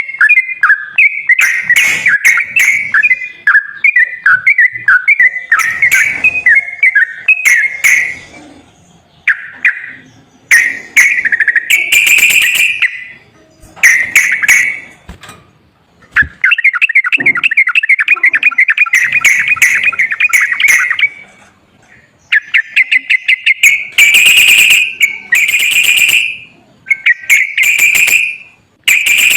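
Sooty-headed bulbul (trucukan) song: bursts of chirped, whistled phrases with short pauses. Midway there is a long, fast, rattling trill, and near the end come louder, harsher notes.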